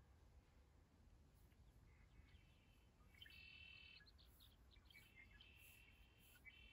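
Near silence, with faint high-pitched bird chirps coming in a few short phrases from about three seconds in.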